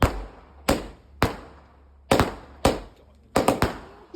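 A firework going off in a rapid, irregular series of sharp bangs, about eight in four seconds, with three in quick succession near the end, each dying away briefly.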